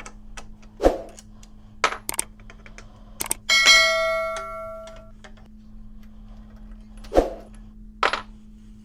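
Metal parts and tools being handled on a workbench: several sharp clunks and knocks, and about three and a half seconds in one piece of metal is struck and rings out, fading over about a second and a half.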